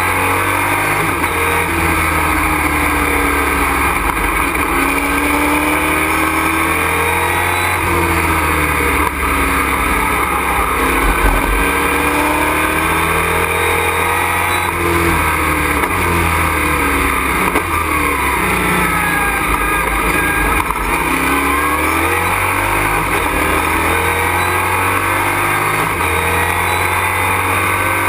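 Race truck's engine heard from inside the cockpit at racing speed, its pitch climbing and dropping again and again as it accelerates, shifts and slows for corners, over steady wind and road noise.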